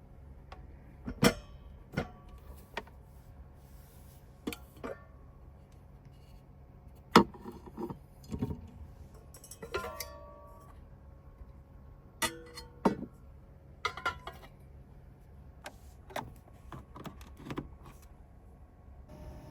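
A series of irregular sharp clicks, knocks and clinks, as of small hard objects being handled and set down, with one louder knock about seven seconds in and a brief ringing clink about ten seconds in, over a steady low hum.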